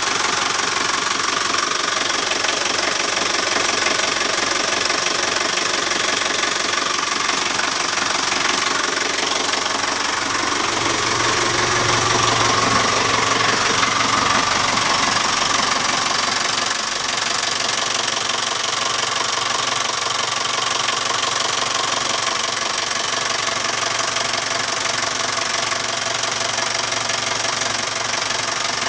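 Yacht's inboard engine running steadily, with a brief change in its note about halfway through.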